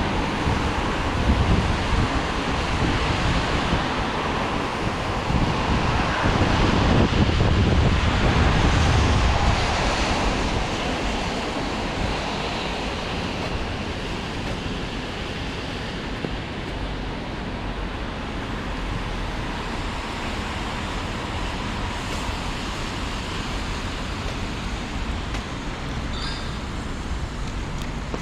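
Steady hiss of rain, with a low rumble that swells and fades about six to ten seconds in as a vehicle passes.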